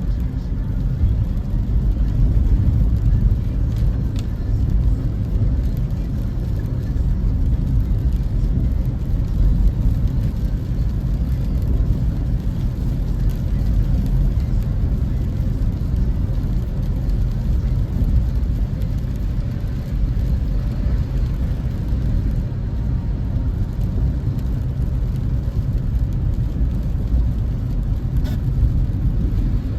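A car driving at steady speed: a constant low rumble of road and engine noise heard from inside the cabin, with no change through the stretch.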